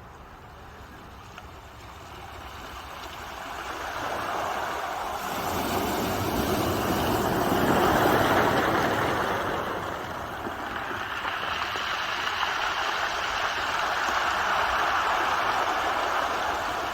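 Ocean waves washing ashore: the surf noise builds to a peak about eight seconds in, eases off, then swells again with the next wave.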